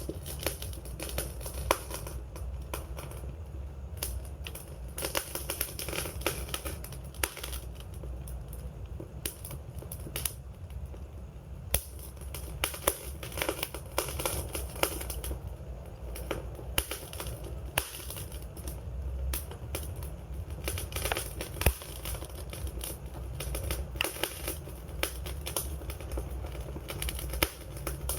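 Campfire burning, wood crackling and popping in quick irregular snaps over a low steady rumble of the flames.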